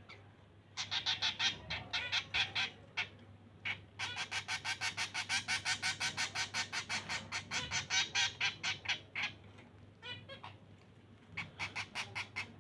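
Zebra finch nestlings giving food-begging calls: rapid runs of high chirps, several a second, in three bouts with short pauses. This is the hunger begging of hand-fed chicks.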